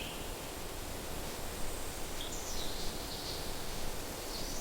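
Outdoor nature ambience: a steady hiss of background noise with a few faint, high bird calls, about halfway through and again near the end.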